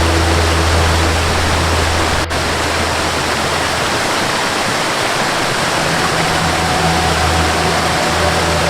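Waterfall rushing steadily, with faint held low tones of a background melody under the water that drop out about two seconds in and return near the end.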